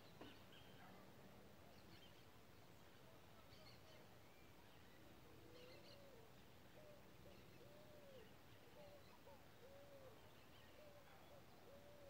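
Very faint bird calls: short, low notes that rise and fall, repeated about once a second through the second half, with a few faint high chirps.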